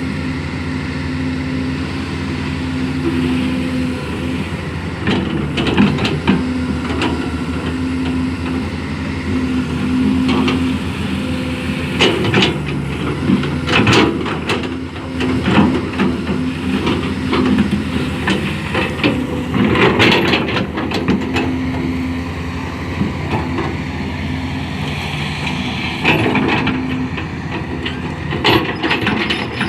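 Excavator's diesel engine running steadily while it digs and levels soil, with intermittent clanks and scrapes from the bucket and arm working the dirt.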